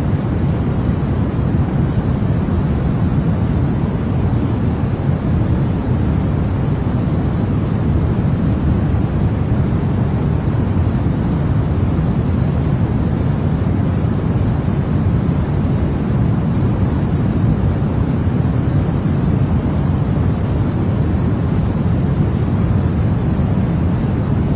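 Continuous sleep-aid white noise for babies, a steady, even rush with no breaks or changes, weighted toward the low end so it sounds deep, like a distant rumble more than a hiss.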